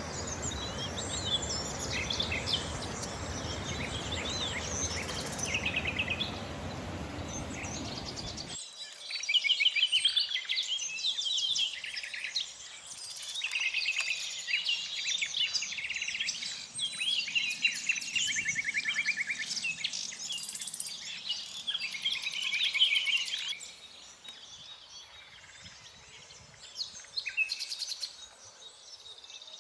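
Common nightingale singing: a long run of varied phrases with fast trills and rapidly repeated notes, loudest from about nine seconds in until about twenty-three seconds, fainter near the end. For the first eight seconds or so a low rushing noise lies under the song, then cuts off suddenly.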